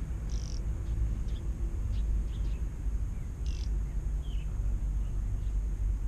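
Small birds giving short, high chirps, about one a second, over a steady low rumble.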